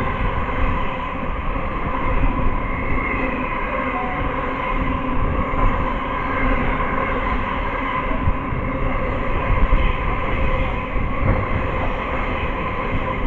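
Diesel-hauled freight train passing through a station: a steady rumble of wagons rolling by under a continuous engine hum.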